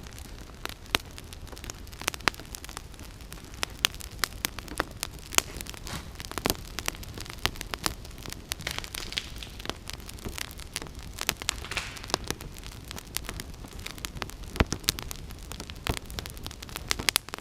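Campfire of damp deadwood crackling, with irregular sharp pops and snaps.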